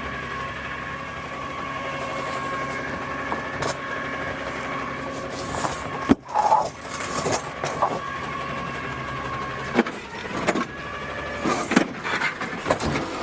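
Automated side-loader garbage truck running, heard from the cab, with a steady mechanical whine. About six seconds in a sharp clank starts a run of several more metallic knocks and bangs.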